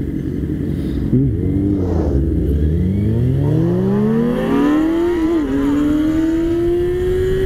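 Sportbike engine under hard acceleration. The throttle is opened about a second in and the pitch climbs steadily through the gear, dips at an upshift about five seconds in, then climbs again, over steady wind rush.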